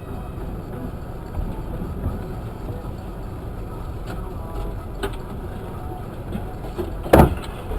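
Steady low rumble, like a running vehicle, with a few light knocks, then one loud sudden bang or crash about seven seconds in.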